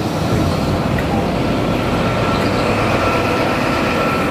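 Class 43 High Speed Train rolling slowly past at close range, its wheels rumbling on the rails. From about a second in a steady whine rides over the rumble as the diesel power car draws near.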